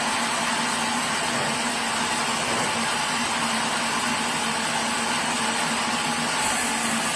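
Sawmill machinery running steadily: a constant, even whirring noise over a low, unchanging hum.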